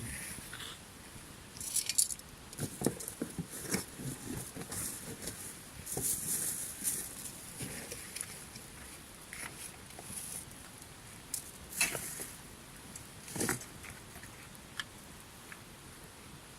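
Lumps of charcoal clinking and clattering as they are added to the fire, in scattered knocks with some rustling. It quietens over the last few seconds.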